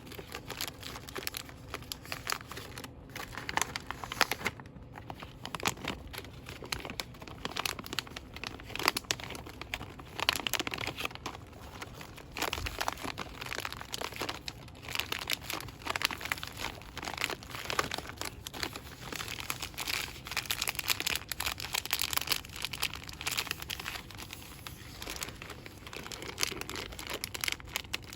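Fast, continuous crinkling and rustling of plastic and paper product packaging being handled.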